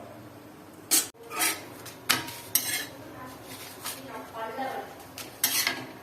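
Metal kitchen utensils and cookware clattering as they are handled: a handful of sharp knocks and scrapes, the loudest about a second in and again near the end.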